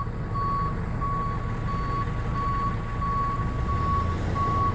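Regular electronic beeping, one steady tone repeating about one and a half times a second, over a low rumble.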